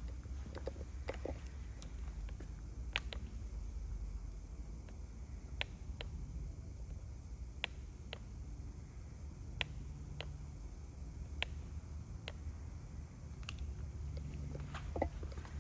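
Mazda RX-7 rotary engine idling after a cold start, a steady low rumble, with sharp clicks scattered irregularly over it.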